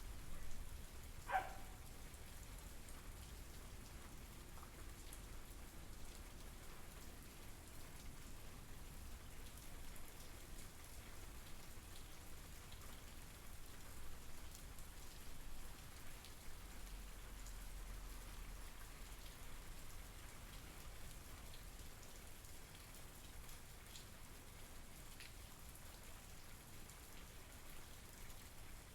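Steady rain falling, an even patter of drops, with one louder drip-like tap about a second in.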